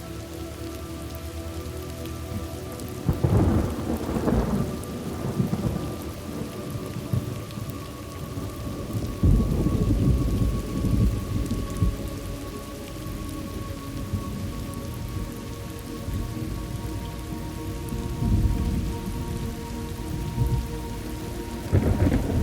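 Thunderstorm ambience: steady rain with rolls of thunder rumbling up several times, the strongest a few seconds in, around ten seconds in and right at the end.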